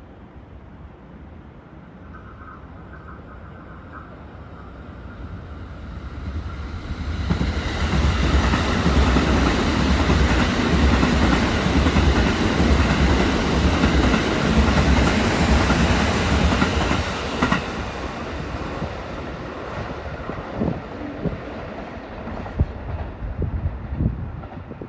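Kintetsu Nara Line train running through the station without stopping: the sound builds as it approaches, stays loud for about ten seconds as the cars go by, then fades, with a few wheel clacks over the rail joints near the end.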